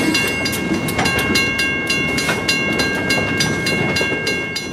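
Freight train cars rolling past, wheels clicking irregularly over rail joints, with a steady high-pitched whine over the rumble. The sound eases off slightly near the end.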